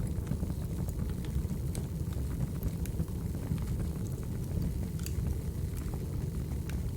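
Crackling wood fire ambience: a steady low rumble of burning logs with scattered sharp pops and crackles.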